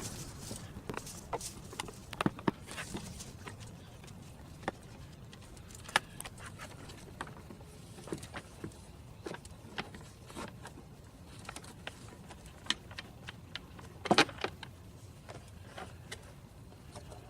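Scattered sharp clicks and light knocks of hands and tools working on an engine air filter housing, with a louder clatter about fourteen seconds in.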